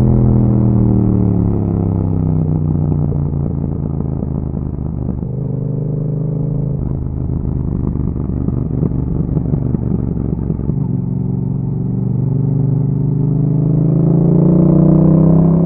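2021 Yamaha MT-07's 689 cc parallel-twin engine through an Akrapovic exhaust, ridden on the road. Engine speed falls over the first few seconds as the bike slows, holds through the middle, then climbs steadily under acceleration from about eleven seconds in.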